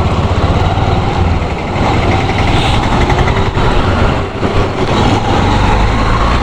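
Motorcycle engine running steadily while riding, with constant wind and road noise.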